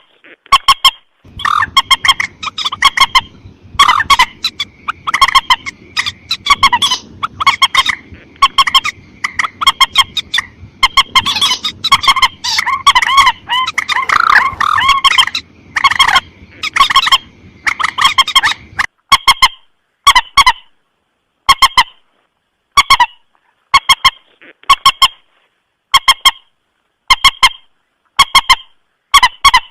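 Bird-lure recording of the mandar sawah, a rail, giving short call notes over and over, often in quick pairs. A low background hiss runs under the calls until about two-thirds of the way through, then the calls continue on a clean background.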